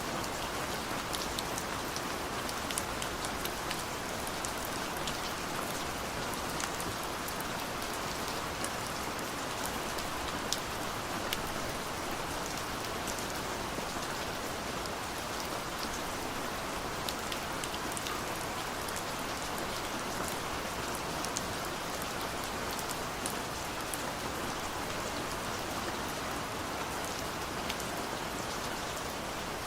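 Steady rain falling, an even hiss with many individual drops ticking sharply on a nearby surface.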